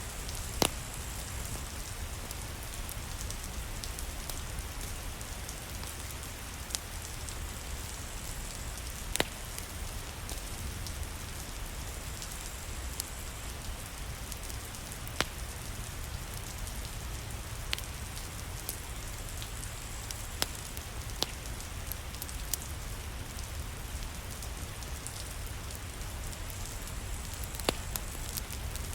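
Steady rain falling, with a low rumble underneath, and a wood fire crackling with a few sharp pops scattered through it.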